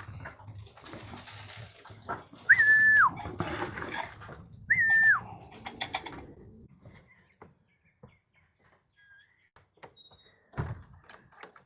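Two identical whistled notes about two seconds apart, each a quick rise, a short held note, then a falling glide, over a rustling noise that dies away; a dull thump comes near the end.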